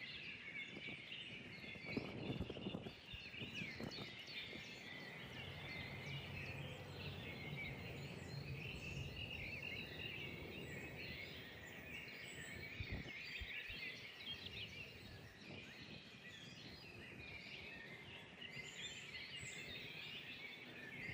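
Many small birds chirping and singing together in a dense chorus of short, high calls. A few low rumbles come about two to four seconds in, and a faint low hum runs under the chorus through the middle.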